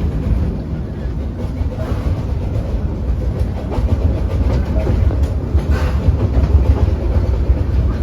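Steam train pulled by a 1901 Dickson Works locomotive, rolling along the track and heard from aboard: a steady low rumble with scattered clicks of the wheels on the rails.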